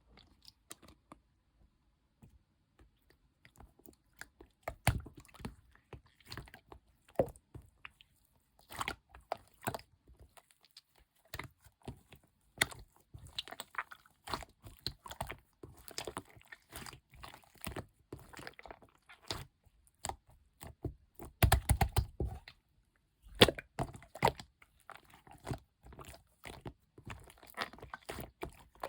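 Orange clear slime being squeezed, folded and poked by hand, giving irregular sticky clicks and pops. It starts a few seconds in, and a cluster of louder squelches comes a little past the middle.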